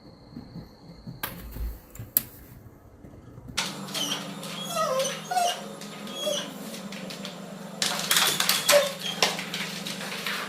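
A dog whimpering in short, high whines from about three and a half seconds in, over a steady low hum, with bursts of clicking and clatter near the end.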